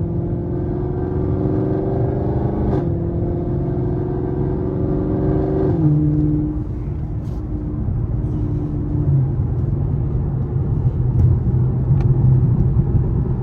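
Chevrolet Camaro 2SS's 6.2-litre V8 accelerating through the gears of its 10-speed automatic. The engine note climbs, drops at an upshift about three seconds in, climbs again and drops at a second upshift about six seconds in, then settles into a steady cruise.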